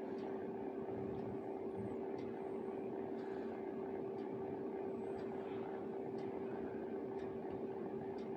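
Quiz countdown-timer background: a steady hum with a faint tick about once a second.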